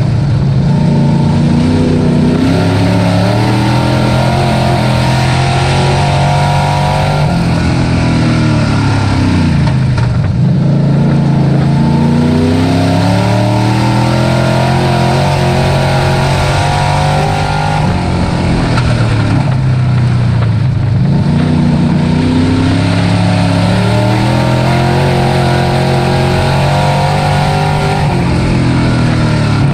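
Race truck engine at full throttle on a dirt oval. The pitch climbs for several seconds, then falls away and climbs again, twice, about ten seconds apart, as the truck lifts for the turns and accelerates down the straights.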